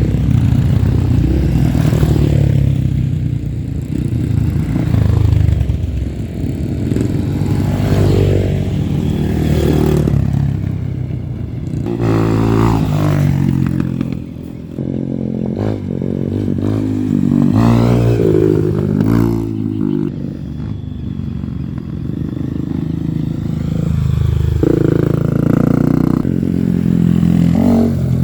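Off-road trail motorcycle engines revved in neutral, the pitch rising and falling with repeated blips of the throttle.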